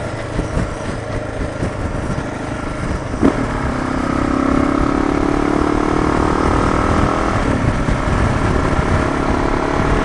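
Motorcycle running at road speed with wind rush. About four seconds in, a steady engine note comes up and climbs slightly in pitch as the bike pulls harder, with a single click just before.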